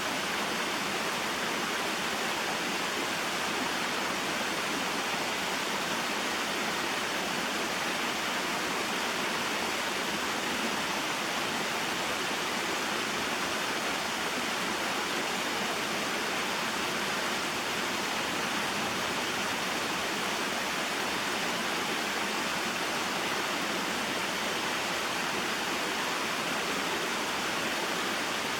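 Small mountain waterfall and stream, water falling and flowing steadily with an even splashing hiss that does not change.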